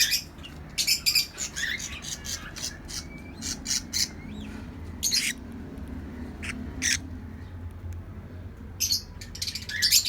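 Budgerigars and other small parrots in an aviary colony chirping and squawking in many short, sharp calls at an irregular pace, over a faint steady low hum.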